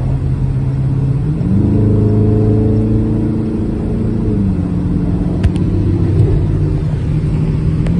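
Car engine running while driving. The engine note rises about a second and a half in, holds, then drops back about four and a half seconds in.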